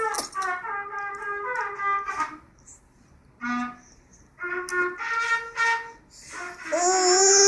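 A ten-month-old baby vocalizing in drawn-out, sing-song babbling tones, in several stretches with short gaps. The last stretch, near the end, is the loudest and rises in pitch.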